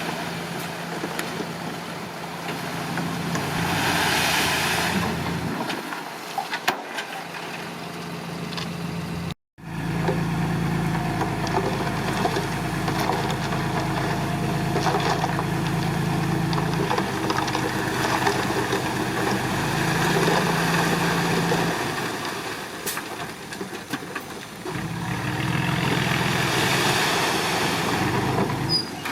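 A bulldozer's diesel engine running under work, its loudness swelling and easing with the load. The sound breaks off for an instant about nine seconds in at an edit cut.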